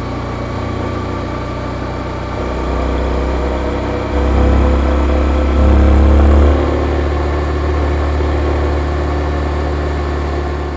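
Yamaha XSR155's single-cylinder engine through its stock exhaust, running at low revs. The revs and loudness rise in steps about two and a half and four seconds in, peak briefly around five and a half to six and a half seconds, then settle back to a steady lower note.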